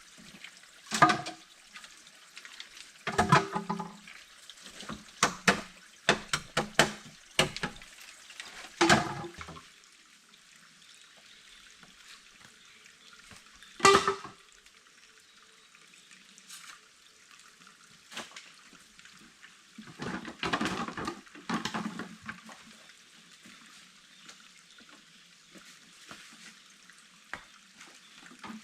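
Water splashing and sloshing in irregular bursts, over a faint steady hiss of running water.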